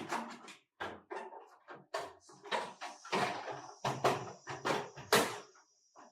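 Irregular series of knocks and clatters, about a dozen in six seconds, like things being handled and struck, with a thin high whine in the middle.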